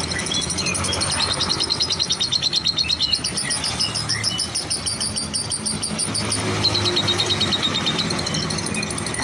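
Lovebird singing in long runs of rapid, high chattering trills, pausing briefly about six and a half seconds in before starting again.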